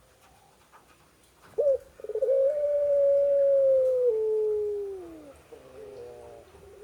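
A female animal's long drawn-out mating call: a short note, then one long, steady call lasting about three seconds that slides down in pitch at the end, followed by a shorter, lower, wavering call.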